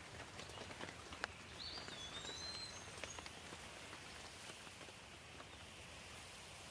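Light rain falling, with scattered single drops ticking over a soft steady hiss. A bird gives one short whistled call about two seconds in.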